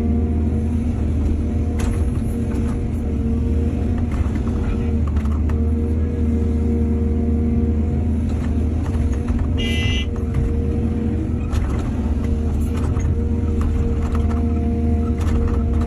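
Heavy diesel engine of an excavator running steadily, with scattered light knocks. A brief high-pitched squeal comes about ten seconds in.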